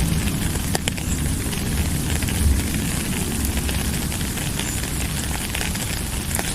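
Steady rain falling, with scattered sharp drop ticks and a constant low rumble under the hiss.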